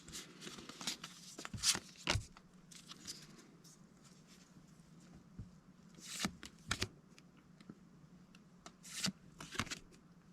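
Pokémon trading cards being handled and slid against one another while a freshly opened booster pack is sorted, a scatter of short papery swishes and flicks over a faint steady hum.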